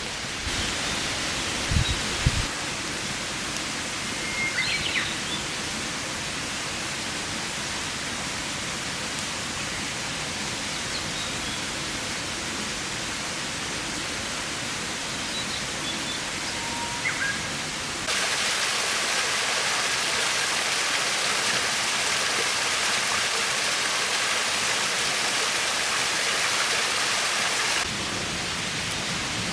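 Steady rushing outdoor noise that turns louder and brighter at a cut about two-thirds of the way through, with a few faint short high chirps.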